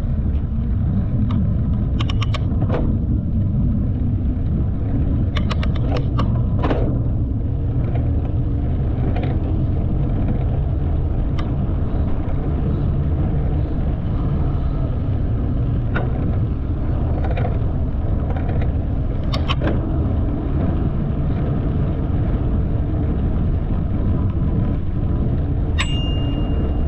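Knobbly mountain-bike tyres rolling fast on pavement, a steady low rumble that the rider calls tyre noise, with scattered clicks and rattles from the bike. Near the end there is a short, high ring.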